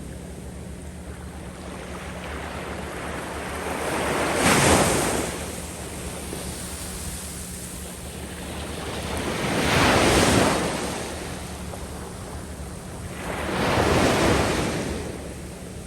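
Waves breaking and washing up over a sandy beach. Three surges swell and fade, one every four to five seconds.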